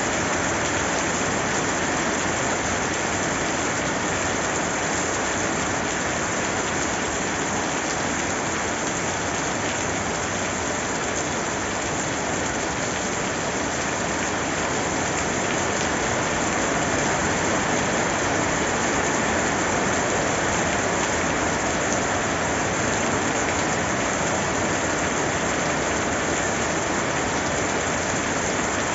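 Steady rain falling and pattering on a surface, an even continuous hiss with no breaks.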